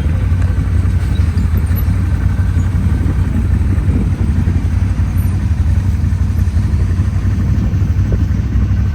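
Off-road vehicle engine running steadily with a low, even drone and rough road or wind noise over it.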